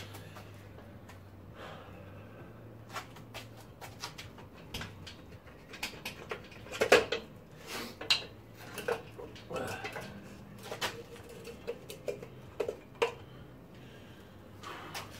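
Metal hand tools and car suspension parts clinking and knocking: a scattered series of sharp clicks and clanks, the loudest about seven seconds in, over a steady low hum.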